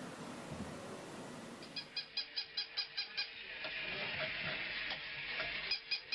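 A steady hiss, then a rapid run of high, evenly spaced chirps from an animal, about six a second, a hissy stretch, and a second run near the end.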